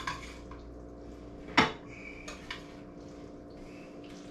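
A spoon clanking against a pot a few times while a thick macaroni-and-cheese mixture is stirred. There is one sharp clank about a second and a half in, over a faint steady hum.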